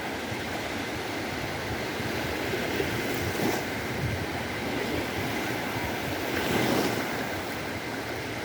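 Mediterranean sea waves washing onto a beach: a steady surf hiss that swells a little about three and a half seconds in and again near the end.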